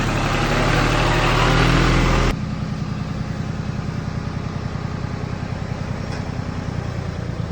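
Tractor engine running loudly, then about two seconds in the sound drops abruptly to a quieter, steady running.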